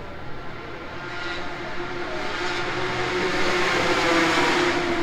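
Racing motorcycle engine at speed, growing louder to a peak about four seconds in, its pitch dropping slightly as it passes by.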